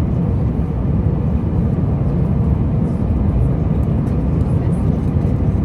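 Steady low rumble of jet airliner cabin noise in flight.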